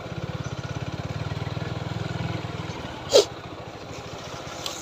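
TVS Apache 4V motorcycle engine running, its even beat louder for the first two and a half seconds and then easing off. About three seconds in, a single brief, loud, sharp sound drops quickly in pitch.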